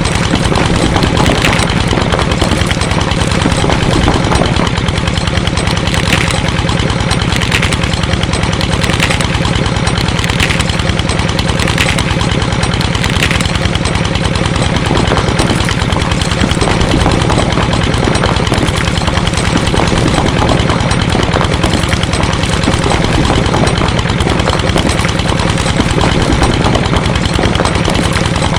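Small engine running steadily with a fast, even firing pulse, with a light click repeating about every second and a half for a while in the first half.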